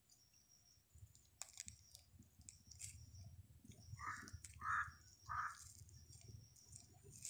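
A bird calls three times in quick succession, short harsh calls about two-thirds of a second apart. There are faint scattered clicks before the calls.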